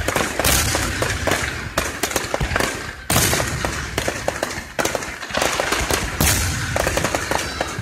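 Aerial fireworks going off in quick succession: sharp bangs and crackling overlap continuously, with a heavier booming burst about three seconds in.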